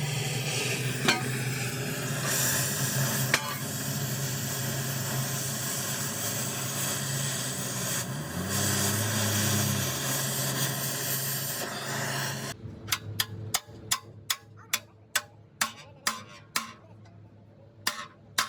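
A machine running with a steady low hum and a loud hiss. About twelve seconds in this cuts off suddenly, and a run of sharp knocks follows, about two a second.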